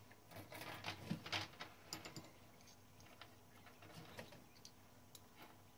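Faint, scattered small clicks and scrapes of metal parts being handled on a Klein Adler 2 portable typewriter while its steel-wire tension spring is being fitted, busiest in the first couple of seconds and sparser after.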